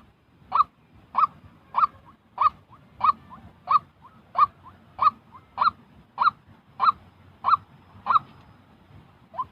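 White-breasted waterhen calling: a loud, evenly repeated series of single call notes, about three every two seconds, which stops shortly before the end.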